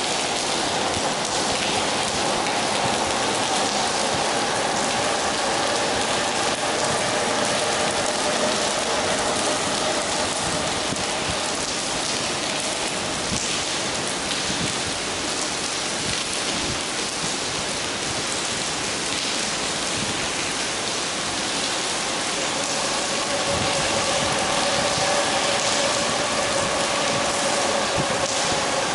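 Steady rain falling on wet tiled pavement: a dense, even hiss of drops with fine pattering throughout. A faint steady hum sits underneath at the start and again near the end.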